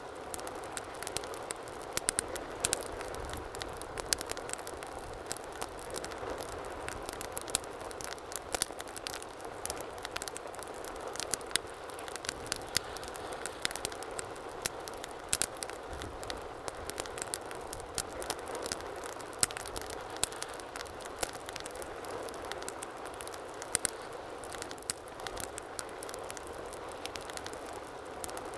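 Fire crackling in a fireplace: a steady soft hiss of flames with frequent sharp, irregular pops and snaps.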